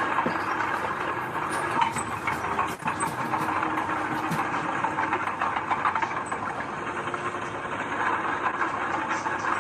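Heavy earthmoving machinery running steadily with a diesel engine, with scattered metallic clanks and rattles.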